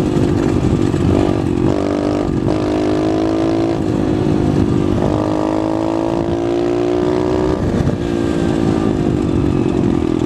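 SSR pit bike's single-cylinder engine running under way. Its note dips briefly several times in the first five seconds, climbs slowly, then holds fairly steady.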